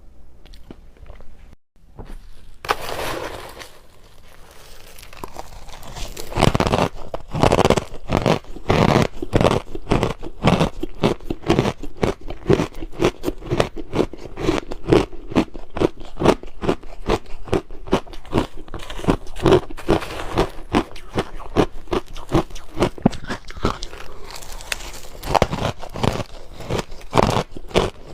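Crushed ice coated in milk powder being chewed close to the microphone. After a quieter start, it settles about six seconds in into a steady run of crisp crunches, about two a second.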